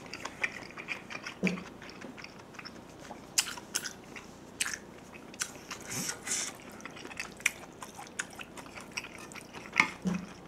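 Close-miked chewing of a mouthful of kimchi stew with soft potato sujebi dough: wet mouth clicks and smacks at an irregular pace.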